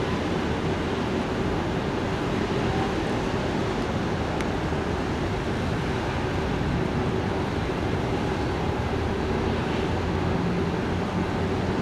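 Jet airliner engine noise: a steady rushing sound with a faint steady hum, holding level without rising or falling.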